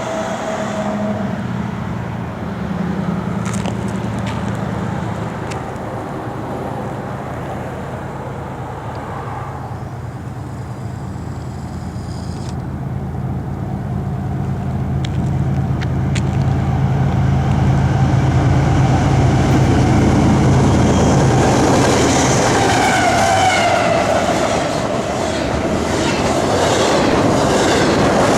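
A diesel-hauled train passing: the locomotives' engines drone steadily and grow louder over the middle stretch. Near the end the wheels clickety-clack at a regular beat over the rail joints.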